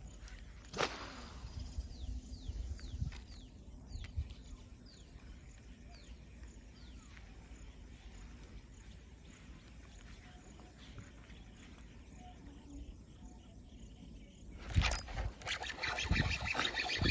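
A bird calling a run of short falling whistles. About a second in there is one sharp smack, as the cast wooden frog lure lands on the water. In the last two seconds a louder, rough burst of noise takes over.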